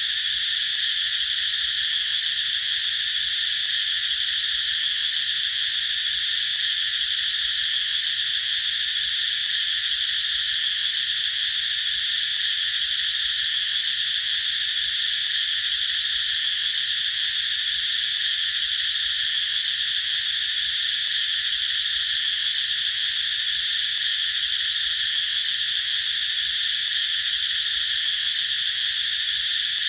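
A chorus of cicadas singing, a steady unbroken high-pitched drone that stays level in loudness throughout.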